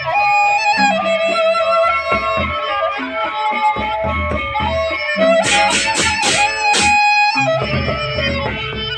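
Gendang beleq ensemble playing, with a bamboo flute carrying a held melody over regular strokes of the large drums. About five and a half seconds in, five quick cymbal crashes ring out together over the melody.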